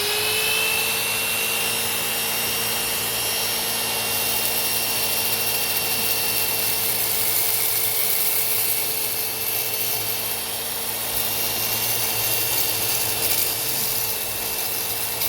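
Rotary buffer running steadily at its top speed setting with the trigger locked, a constant whine over a hiss, as its pad is cleaned of dried compound.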